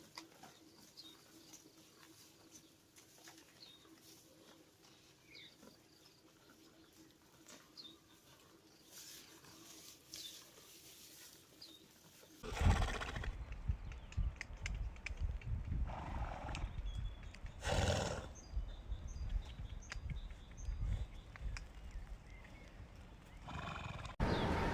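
Horse sounds: faint for the first half, then after a sudden jump in level about halfway in, louder horse calls and snorts in several short bursts.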